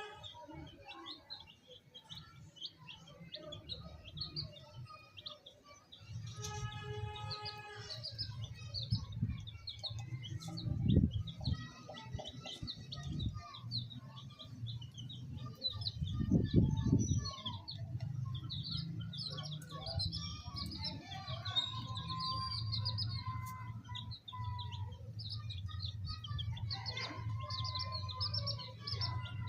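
A group of baby chicks cheeping, many short high peeps overlapping throughout. A low steady hum comes in about six seconds in, and there are two dull thumps, one near the middle and one a few seconds later.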